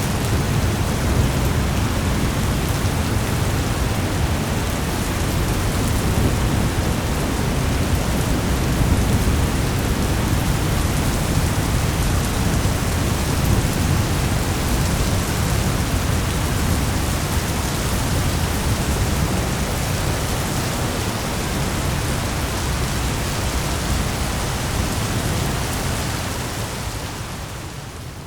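Thunderstorm ambience: steady heavy rain hiss over a low rolling rumble of thunder, easing off in level near the end.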